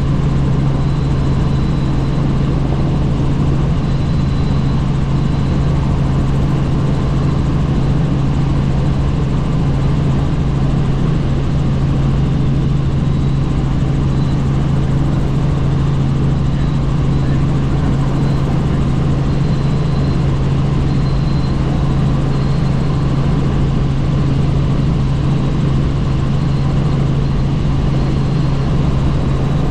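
Helicopter in flight heard from on board: the rotor and engine make a steady, loud low drone over a constant rush of noise.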